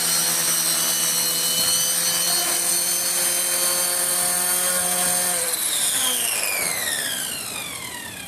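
Align T-Rex V2 RC helicopter running with a steady whine from its rotor head and drivetrain. About five and a half seconds in it spools down, and the whine falls in pitch and fades.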